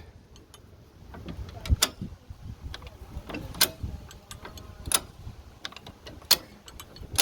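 60-inch high-lift jack being lowered one notch at a time: sharp metal clacks about every second and a half as the pins snap into the holes of the steel bar, with lighter clicks and rattles in between.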